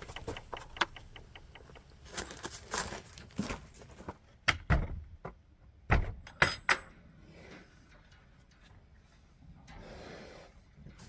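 A run of clinks, rattles and knocks from small hard objects being handled, with two heavy thumps near the middle and a few ringing clinks just after the second.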